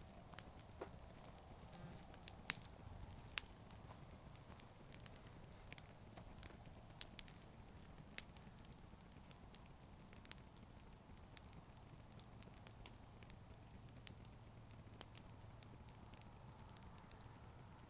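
Wood campfire crackling, with scattered sharp pops throughout and a few louder snaps in the first few seconds.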